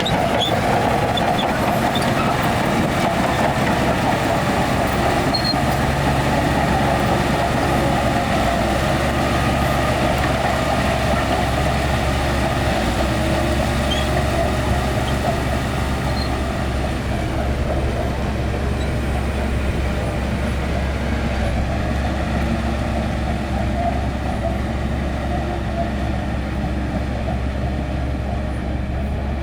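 Heavy diesel earthmoving machinery running steadily, with a deep engine note under a broad mechanical din that eases a little about halfway through.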